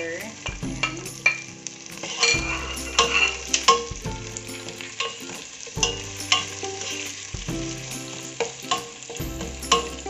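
Onion and garlic sautéing in hot oil in a pan, sizzling steadily while a spatula stirs, with repeated sharp scrapes and taps against the pan.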